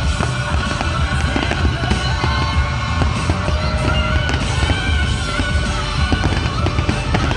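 Aerial fireworks shells bursting in quick succession, many overlapping bangs, over music playing throughout.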